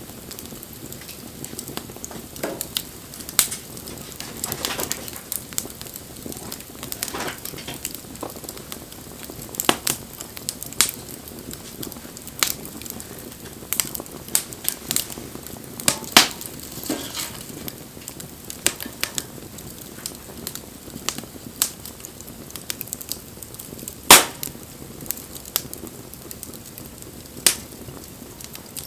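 Bonfire burning, crackling with irregular sharp pops over a steady low hiss; one pop about three quarters of the way through is much louder than the rest.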